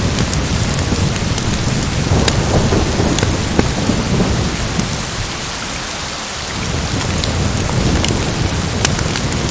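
Steady heavy rain with a low rolling rumble of thunder, which eases briefly a little past the middle and then builds again. Scattered sharp ticks sound over the rain throughout.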